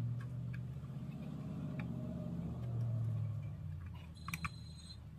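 A car engine idling with a steady low hum that eases off about four seconds in, where a short high beep sounds.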